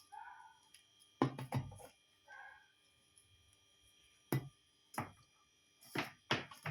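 Several sharp clicks and knocks of a power cable being handled and plugged into a mobile-screen bubble remover machine, with two short faint tones in between.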